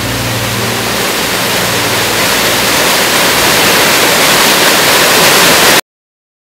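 Rushing water of a waterfall, a steady loud hiss that grows louder and cuts off suddenly near the end.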